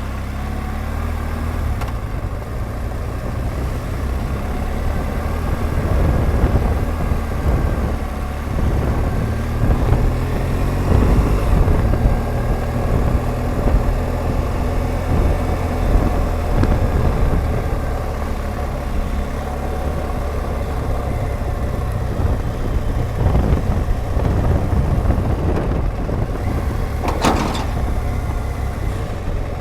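BMW R1200GS Adventure's boxer-twin engine running steadily while the motorcycle is ridden along a road, with a heavy low rumble. A brief sharp click or knock near the end.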